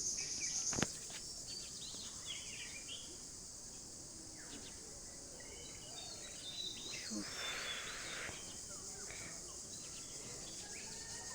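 Faint outdoor ambience: a steady high-pitched insect drone with a few faint bird chirps scattered through it. A single click about a second in, after which the drone is quieter.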